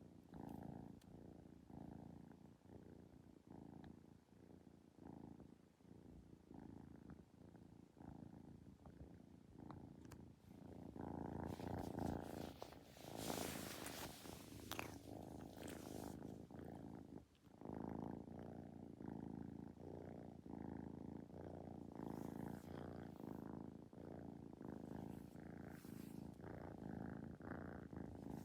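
Kitten purring close up, a steady rhythmic pulse, with a louder, noisier stretch about halfway through.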